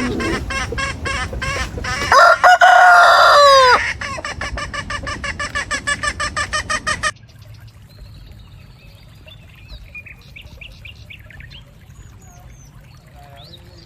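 Chickens: rapid, rhythmic clucking, broken about two seconds in by a loud rooster crow that ends in a falling note, then more fast clucking. About seven seconds in it cuts to much fainter scattered chirps of small birds.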